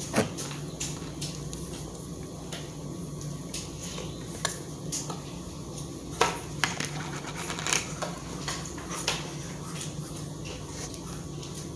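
Cutlery and dishes clinking in scattered light clicks and knocks over a steady low hum.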